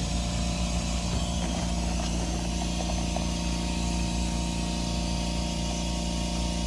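Tyre air pump's compressor running with a steady hum.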